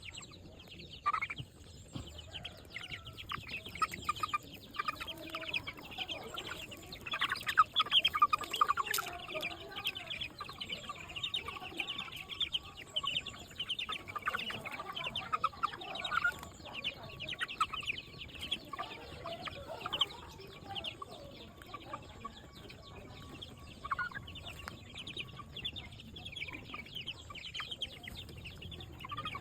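A group of chickens clucking and calling as they feed together, a dense run of short calls that is busiest in the first half.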